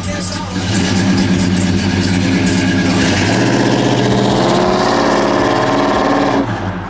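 Car engine running close by, its pitch wavering, then cutting off suddenly near the end.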